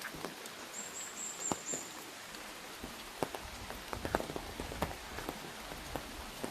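Rain pattering on an umbrella: a steady hiss with irregular sharp taps of heavier drops. A brief high, thin trill sounds about a second in.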